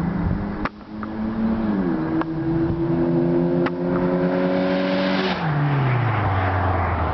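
A Mazda3's 2.3-litre engine with a Mazdaspeed3 exhaust and an aftermarket cold air intake runs under load with a steady note. The pitch steps briefly about two seconds in. Past five seconds a rush of noise swells, and the note falls away over about a second as the revs drop.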